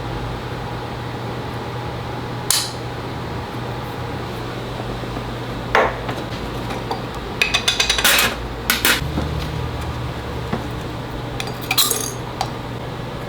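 Small metal tools clinking and tapping on a jeweller's bench: a few single taps, then a quick run of clinks in the middle and a short cluster near the end, over a steady low machine hum.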